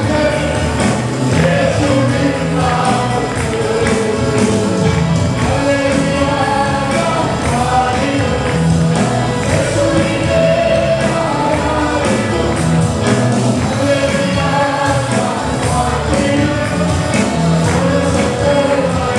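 Gospel worship song: voices singing a melody together over band accompaniment with a steady percussion beat.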